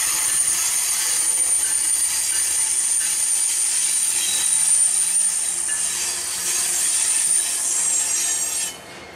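BNSF freight train's diesel locomotives passing close by at speed: a rushing rail roar with a steady high-pitched wheel squeal, which drops off sharply just before the end.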